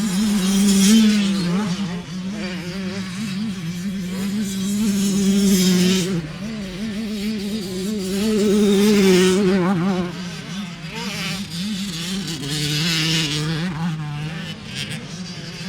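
Racing engines at a motorsport event: a steady, wavering engine drone with louder surges about every four seconds as machines pass.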